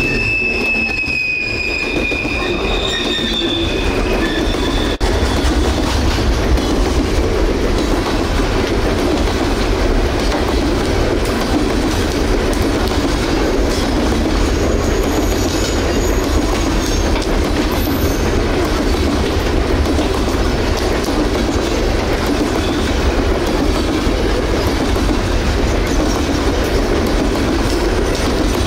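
Railroad freight cars rolling past with a steady, heavy rumble of wheels on rail. A high wheel squeal at the start fades out about four seconds in, and a fainter squeal returns around the middle.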